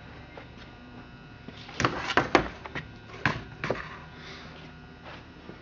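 Several sharp clicks and knocks of a Stihl 028 chainsaw being handled with its engine off, bunched in the middle of the stretch.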